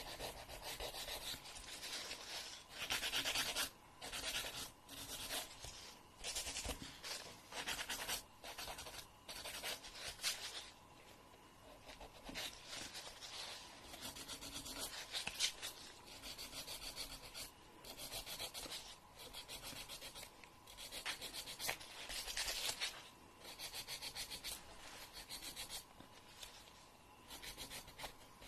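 Nail file rasping across a fingernail in a run of repeated, irregular strokes, each under a second or so long, with short pauses between them.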